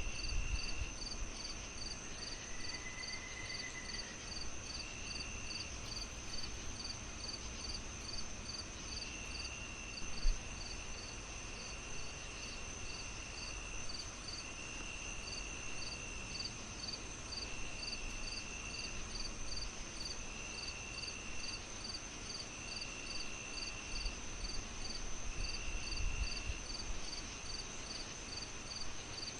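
Crickets chirping in a steady pulse about twice a second, with longer insect trills coming and going, over a soft, steady crackle of a wood fire. One sharper pop stands out about ten seconds in.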